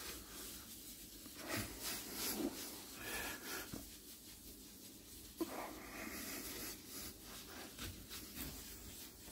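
Faint, irregular swishing of a damp sponge coated in wood ash being rubbed in circles over sooty fireplace door glass, scouring off the soot, with a small click about five and a half seconds in.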